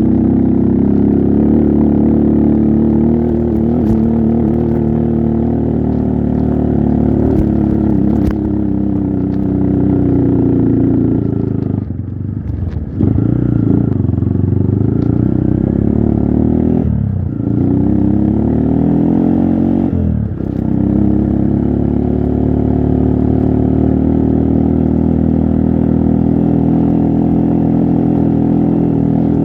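Trail motorcycle engine running steadily under throttle, the revs dropping and picking up again three times in the middle stretch, with a couple of sharp knocks in the first third.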